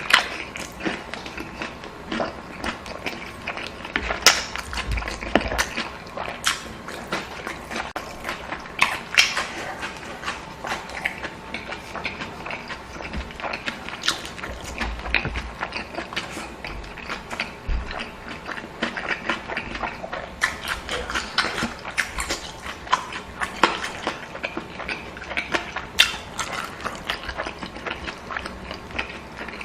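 Close-miked eating sounds: chewing and mouth smacks, with a steady stream of short, sharp, irregular clicks and an occasional low thump.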